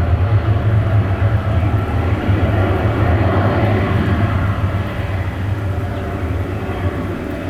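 Cessna Citation Longitude's twin Honeywell HTF7700L turbofans as a steady low rumble from the departing jet, easing off slightly over the last few seconds.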